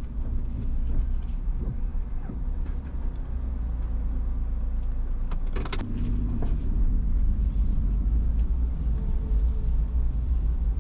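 Steady low rumble of a car being driven, heard inside the cabin. A short cluster of clicks comes about five and a half seconds in.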